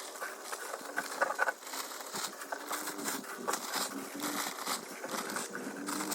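Irregular crunching and crackling of sleet and ice crust being disturbed, with scattered sharp ticks.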